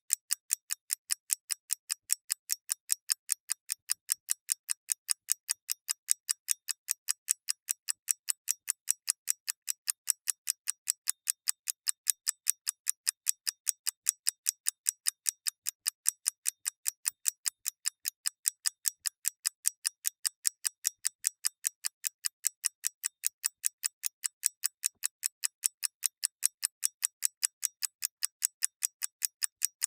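Clock mechanism ticking steadily: an even run of crisp, high ticks, about four a second.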